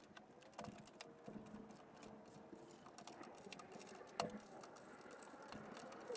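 Faint, irregular clicks and light knocks, with a sharper knock about four seconds in, over a low background hum.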